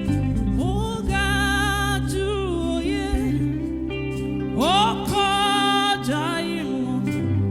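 Gospel music: a voice sings phrases that swoop up into long held notes over instrumental backing with a low bass line.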